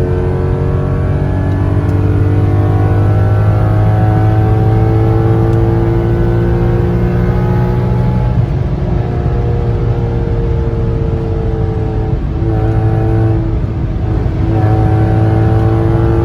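2002 Audi S6 Avant's 4.2 L naturally aspirated V8 running hard through a catless 3-inch true dual exhaust and Magnaflow muffler, a loud, deep exhaust note. The pitch climbs slowly for about the first half, then drops, with two brief breaks in the note later on.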